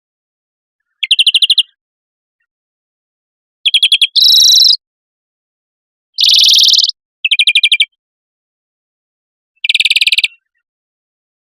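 Recorded songbird song: short, rapid trills of about eight quick high notes, repeated every second or two with silent gaps. Two harsher, buzzier bursts fall near the middle. This is a compiled tutor recording of songbirds used by fanciers to train caged birds.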